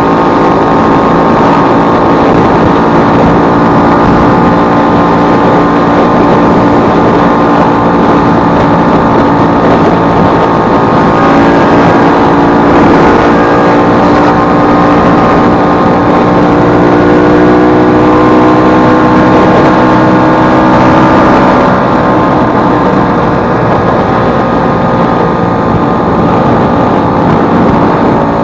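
Vespa 150's single-cylinder two-stroke engine running under way, its pitch rising and falling gently with the throttle, then dropping off about 22 seconds in as the throttle is eased. The engine has just had its broken elastic pinion (cush-drive gear) replaced.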